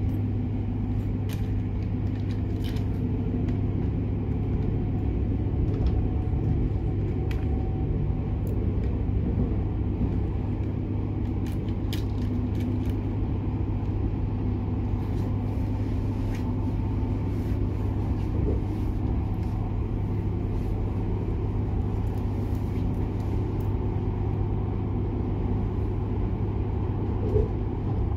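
Steady running noise inside a Bombardier Régio2N double-deck electric train at speed: a constant rumble from the wheels on the rails, with a few light clicks.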